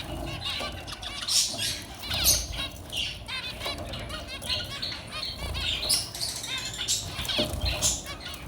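Several zebra finches calling busily in a cage, many short nasal chirps overlapping one another, with wings fluttering now and then.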